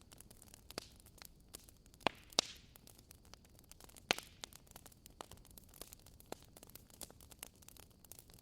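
Wood fire crackling: a soft steady hiss with many small snaps, and a few louder pops, two of them close together about two seconds in, the second with a brief hiss, and another about four seconds in.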